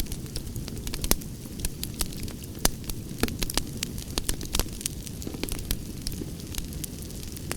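Campfire burning, a steady low rumble of flames with frequent irregular crackles and pops of burning wood.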